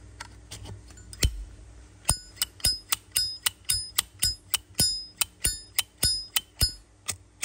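Vintage 1994 Zippo lighter's hinged brass lid being flicked open and snapped shut over and over: a rapid run of sharp metallic clicks, about three a second, each with a short bright ring.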